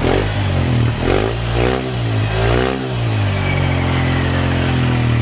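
Honda Click 125 scooter's single-cylinder four-stroke engine running through a new ORBR aftermarket exhaust pipe. It is blipped up and down about four times, then settles to a steady idle about three seconds in.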